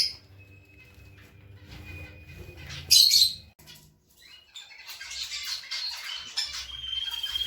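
Small cage birds calling: two short, loud, harsh calls, one at the start and one about three seconds in, then twittering song that builds toward the end with a held whistled note.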